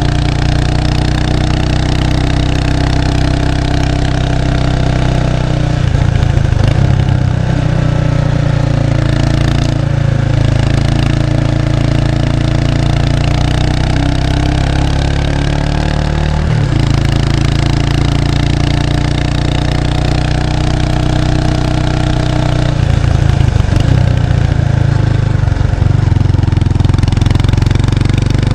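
Kawasaki Estrella 250's single-cylinder engine heard through its stock muffler while riding, recorded close to the exhaust. The note drifts up and down in pitch, with abrupt changes three times.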